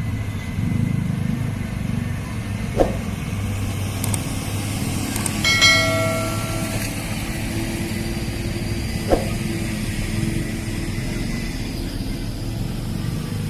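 Heavy truck engine running steadily with a low rumble. Two sharp clicks are heard, one a few seconds in and one near the end, and a brief high-pitched tone sounds about halfway.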